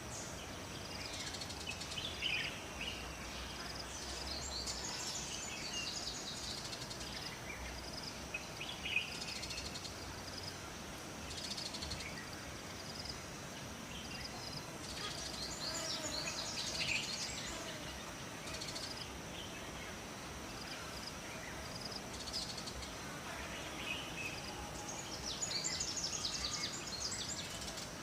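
Forest ambience with songbirds singing in repeated chirping phrases every few seconds, over a steady background hiss and a faint continuous insect drone.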